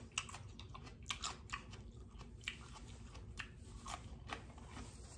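A person chewing and biting crunchy raw fruit and vegetables close to the microphone: irregular crisp crunches, a few a second.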